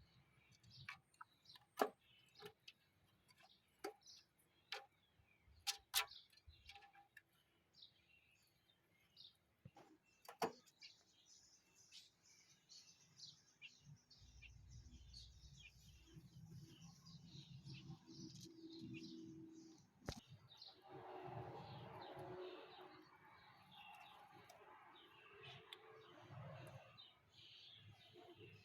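Small birds chirping faintly, with short high chirps coming thick from about ten seconds in. Scattered sharp clicks and taps in the first part.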